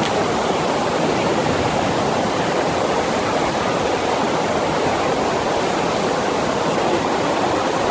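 Steady rush of water from a FlowRider sheet-wave machine, its pumped sheet of water pouring over the ride surface.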